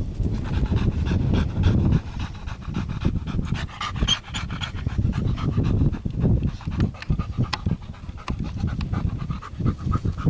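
A dog panting hard in quick, uneven breaths.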